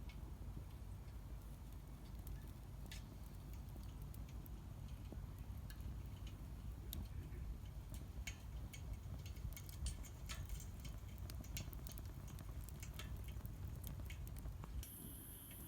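Wood fire burning in a Solo Stove Campfire, with scattered small crackles and pops over a low steady rumble. A steady high-pitched buzz comes in near the end.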